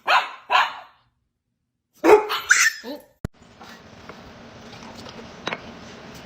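Dog barking: two quick barks, then after a pause a few more short barks about two seconds in, followed by faint room noise with a few light taps.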